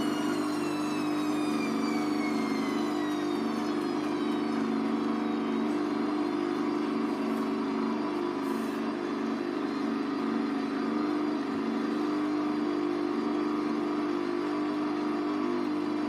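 Hoover Vision Tech VT 914 D22X washing machine running with a steady hum. A high motor whine falls in pitch over the first few seconds as the drum slows.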